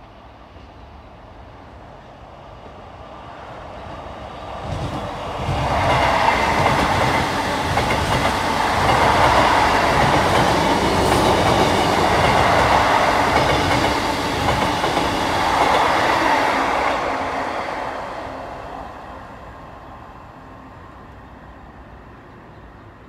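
Multiple-unit passenger train passing at speed: it builds up a few seconds in, is loud for about ten seconds with the clickety-clack of its wheels over the rails, then fades away.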